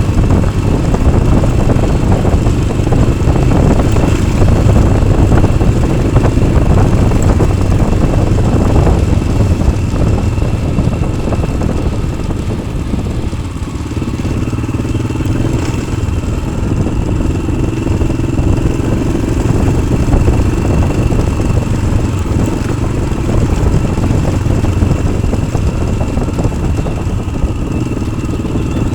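Yamaha XT600's single-cylinder four-stroke engine running under way through an Arrow aftermarket exhaust, easing off briefly about halfway through and then pulling again.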